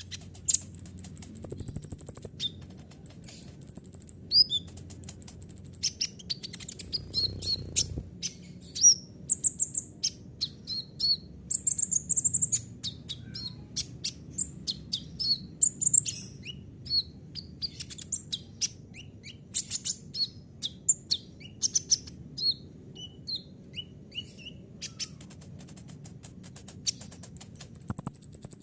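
A kolibri ninja (a sunbird kept as a songbird) singing a fast, varied song of high chirps, twitters and trills, with held high buzzy trills in the first few seconds and again near the end. A faint steady low hum runs beneath it.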